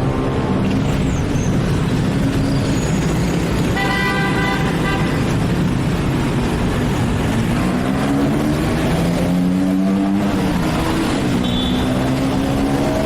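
Motorbike engine running through city traffic, its pitch rising and falling as it revs, with a vehicle horn honking for about a second around four seconds in and a short high beep near the end.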